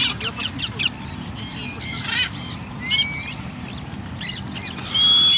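Pet parrots giving short, high chirping calls again and again, with one call gliding in pitch about three seconds in. Near the end a loud, steady high whistle sets in.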